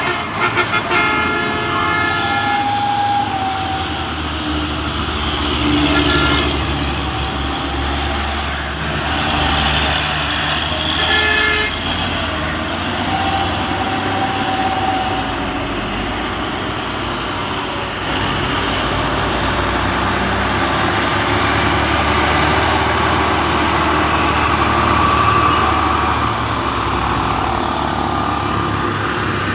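Truck engine running under load, with a horn tooting in the first couple of seconds.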